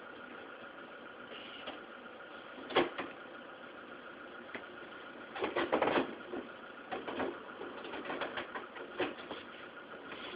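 A 1997 Renault Clio diesel engine idling outside, heard faintly through a window, a steady low hum with a couple of held tones. A few short clicks and rustles stand out about three seconds in and again from five to nine seconds.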